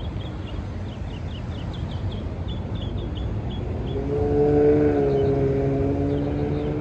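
A train horn sounds one long chord of several tones starting about four seconds in, its pitch sagging slightly, over a steady low rumble. Small birds chirp faintly in the first half.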